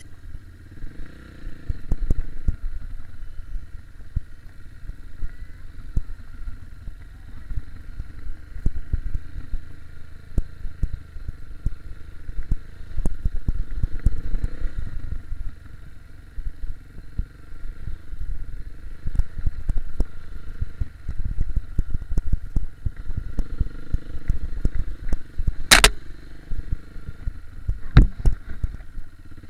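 KTM 250 EXC-F four-stroke dirt bike riding off-road, with heavy irregular low thumping and buffeting over the engine, and two sharp knocks near the end.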